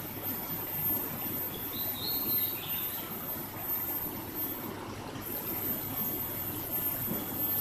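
Steady rush of river water flowing, with a brief faint high chirp about two seconds in.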